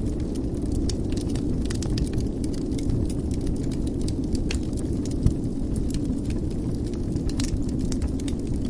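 Wood fire burning in a fireplace: a steady low rumble with frequent small crackles and snaps, and one louder pop about five seconds in.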